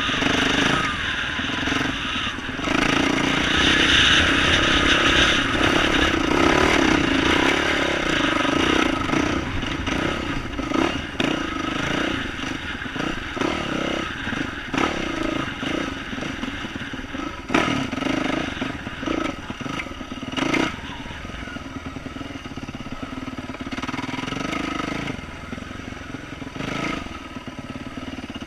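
2012 Yamaha YZ450F's single-cylinder four-stroke engine with an aftermarket exhaust, revving up and down while riding a trail, loudest in the first third. Sharp knocks and clatter from the bike going over roots come through repeatedly, and the engine settles to a lower, steadier note near the end.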